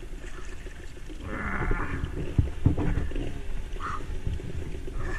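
Dirt bike engine revving unevenly while the bike is stuck with its rear tire in a muddy hole, the rumble swelling about a second in. Two sharp knocks come in the middle.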